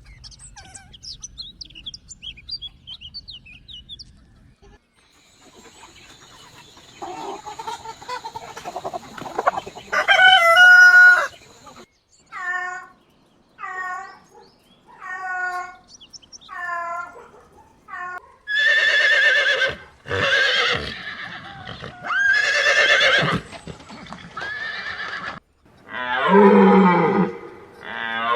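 A succession of different animal calls: faint short chirps at first, then a loud call, six short repeated calls about a second apart, and several longer, louder calls near the end.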